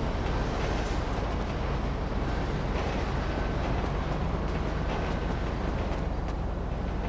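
Steady low rumble and noise of a running vehicle, unchanging throughout.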